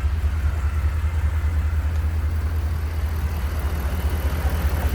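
Ford 7.3L gasoline V8 in a bucket truck idling, a steady, even low rumble.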